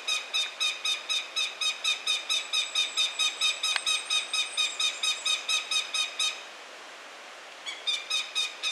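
A hawk calling a fast run of short, sharp notes, about five a second. The run breaks off about six seconds in and starts again after a gap of a second and a half.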